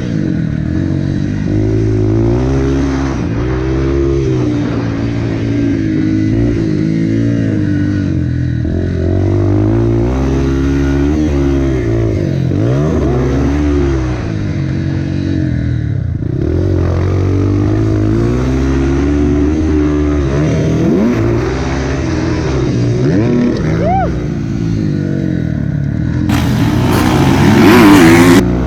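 Four-stroke dirt bike engine revving hard and easing off over and over, pitch rising and dropping through the gears as it rides the track. Near the end a loud rushing noise covers everything for about two seconds.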